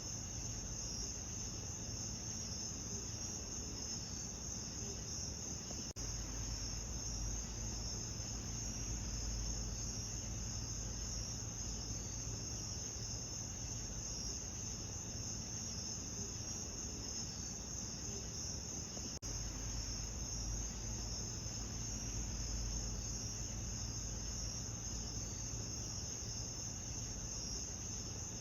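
Steady chorus of chirping crickets over a low rumble, with a brief dropout about six seconds in and again near nineteen seconds.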